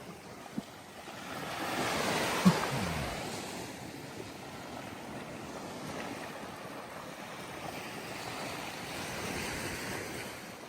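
Small waves breaking and washing up a sandy beach, one wash swelling about two seconds in, with wind on the microphone. A sharp click about two and a half seconds in is the loudest moment, with a fainter one just before it.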